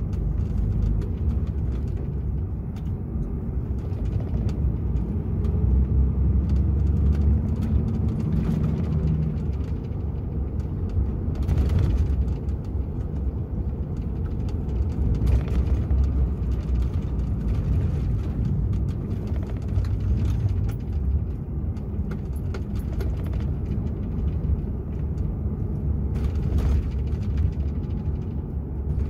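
DAF XF 480 truck's PACCAR MX-13 inline-six diesel running on the move, a steady low rumble of engine and road noise, with faint rattles and clicks now and then.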